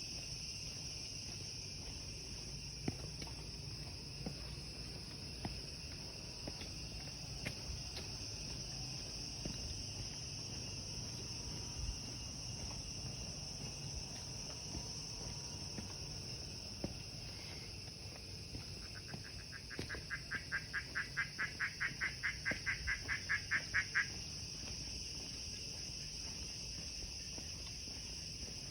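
A steady, high-pitched insect chorus drones in forest. About two-thirds of the way through, an animal call of rapid, evenly spaced notes (about five a second) grows louder for some four seconds, then stops abruptly. A few faint clicks are scattered through it.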